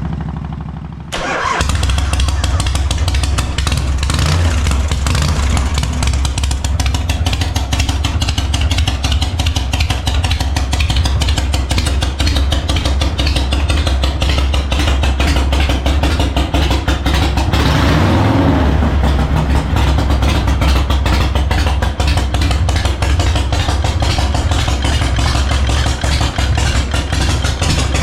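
Knucklehead V-twin engine in a 1985 Harley-Davidson FXR cranking and catching about a second in, on its first start after the build. It then runs steadily with a rapid firing beat and is briefly revved about two-thirds of the way through.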